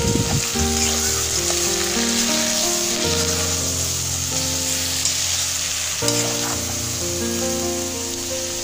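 Chicken pieces sizzling as they brown in an aluminium pot, stirred with a metal spoon, under background music of long held notes that shift every second or few.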